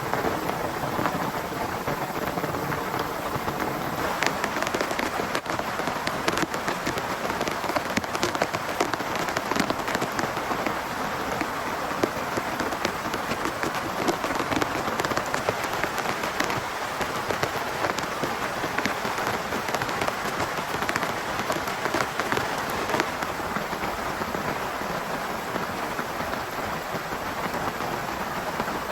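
Heavy rain falling steadily on a tent, with many sharp individual drop hits on the fabric.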